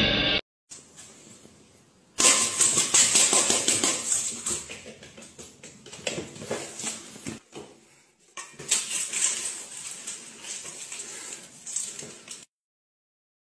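Dry kibble rattling in a stainless steel bowl as a cat eats from it, a fast crackle of clicks starting about two seconds in and breaking off briefly twice.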